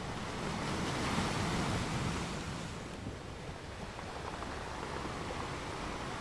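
Ocean waves washing onto a sand beach, a steady rushing noise that swells about a second in and eases off again about three seconds in.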